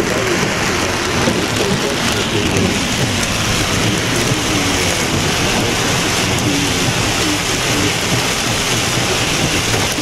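Heavy rain pelting a car's windshield and roof, heard from inside the cabin as a steady, dense hiss.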